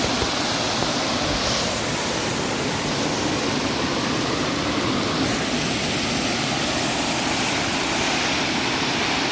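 Waterfall rushing, a steady even noise.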